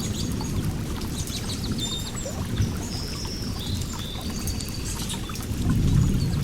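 Flowing water rushing steadily, with a low churning sound that swells near the end, while small birds chirp, trill and whistle above it.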